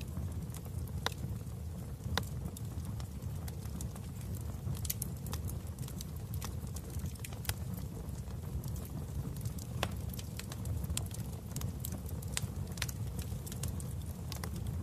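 Wood fire burning in a fireplace: a steady low rumble of the flames under irregular sharp crackles and pops from the burning wood.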